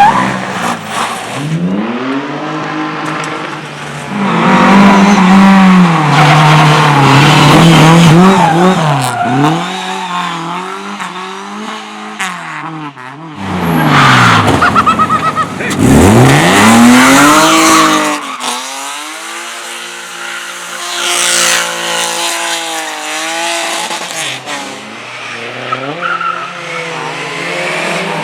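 Race car engines revving up and down hard, with tyres skidding and squealing as the cars slide through the course. The sound swells loudest twice, about four seconds in and again about fourteen seconds in.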